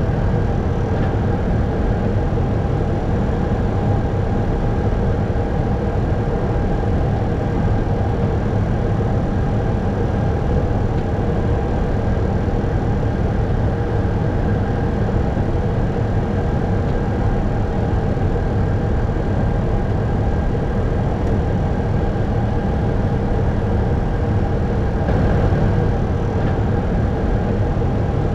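Steady flight-deck noise of an Airbus A321 climbing at climb thrust: a constant rush of airflow and engine noise with a few steady humming tones running through it.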